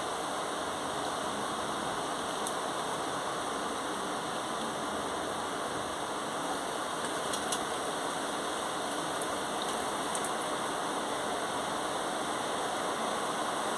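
Heavy rain falling steadily over rooftops, an even, unbroken hiss. A few faint ticks of drops come through near the middle.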